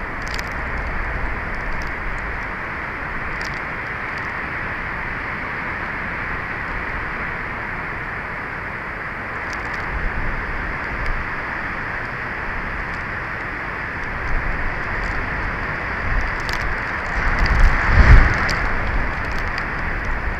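Strong wind blowing steadily across an outdoor microphone, with a few faint ticks. Gusts swell near the end and bring a low rumble of wind buffeting the microphone.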